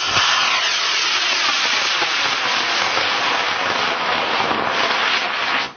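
Loud, steady rushing hiss that starts suddenly and cuts off suddenly near the end.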